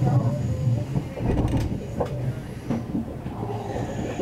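Passenger train running over the tracks, heard from inside the carriage: a steady low rumble of wheels on rail, with a few sharp clicks in the middle.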